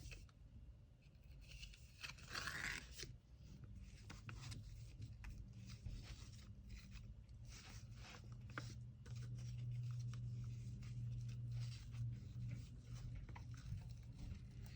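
Kraft paper and packing materials being handled: light crinkling and rustling in quick irregular strokes, with a longer tearing sound about two seconds in, over a low steady hum.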